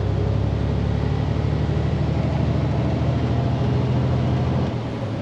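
Diesel engine of a day-cab semi truck running steadily under way, a low drone that eases off slightly near the end.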